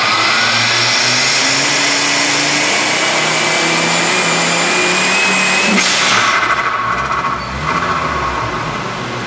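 Volvo 850's turbocharged five-cylinder engine pulling on a chassis dyno, its pitch climbing steadily under load. About six seconds in the throttle is lifted: the sound drops off suddenly and the revs fall back toward idle.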